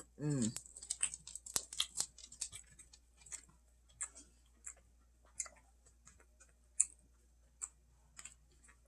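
Close-up chewing of green beans: a run of small wet mouth clicks and smacks, crowded together in the first couple of seconds and then more spaced out.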